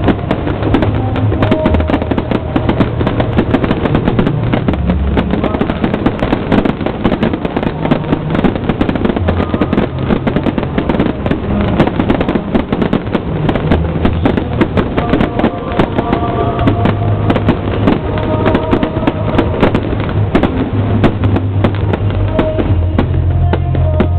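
Fireworks bursting and crackling in quick, dense succession over music with a heavy bass line.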